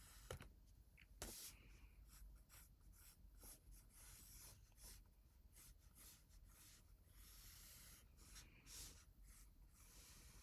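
Faint, irregular scratching strokes of a pen or pencil drawing on paper.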